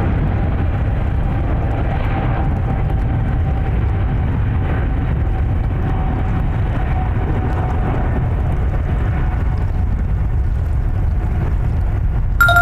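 Air India Boeing 777 jet engines running: a deep, steady rumble with a faint thin whine that slowly drifts down in pitch. A short metallic ding sounds at the very end.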